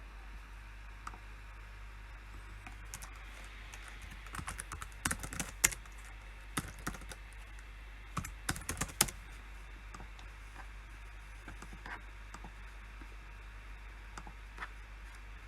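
Computer keyboard typing in short bursts: a quick run of keystrokes about four seconds in and another about eight seconds in, with scattered single clicks between them, over a low steady hum.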